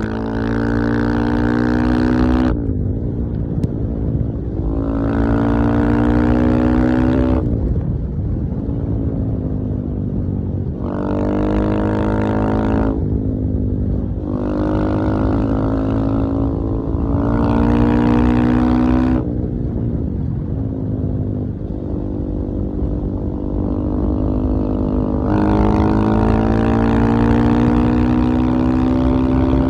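KTM 450 EXC-F enduro motorcycle's single-cylinder four-stroke engine running under way, the throttle opened and eased in turn. There are about six spells of a few seconds each of harder pulling, with a softer, lower engine note between them.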